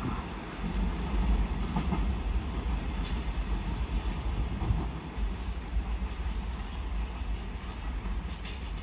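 Train rolling by, a steady low rumble with a few faint clicks, slowly growing quieter.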